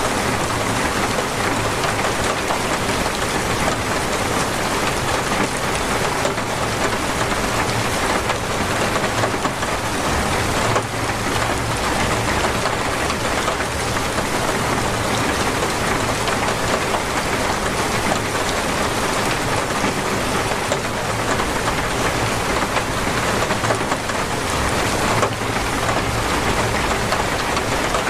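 Heavy, torrential rain falling steadily in a dense even patter on surfaces.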